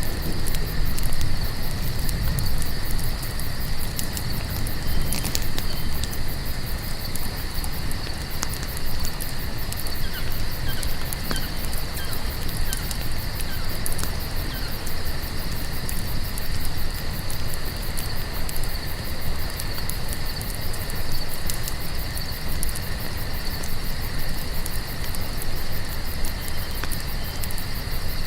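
Crickets chirping steadily in a fast, even trill, over a crackling campfire with a low rumble and occasional sharp pops.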